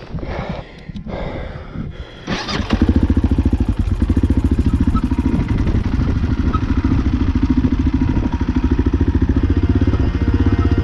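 A motorcycle engine starts about two and a half seconds in and then runs at a steady idle with a fast, even beat. Before it starts there are a few brief knocks and rustles.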